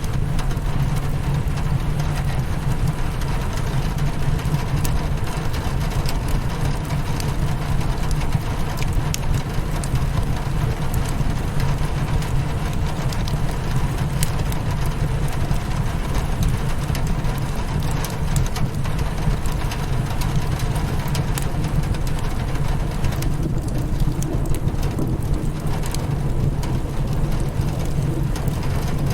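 Rain hitting a window together with a crackling wood fire: a steady low rush of rain under frequent small, sharp crackles and pops.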